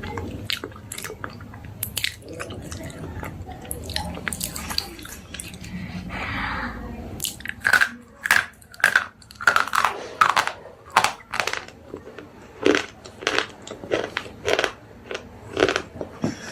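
Slate pencils being bitten and chewed: small crackling chews at first, then from about halfway a run of sharp, loud crunches about one and a half a second.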